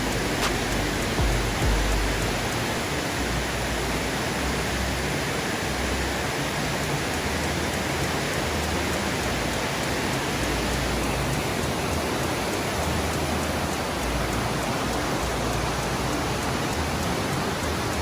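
Steady rush of a river running through a rocky gorge, an even wash of water noise, with a few low rumbles on the microphone in the first couple of seconds.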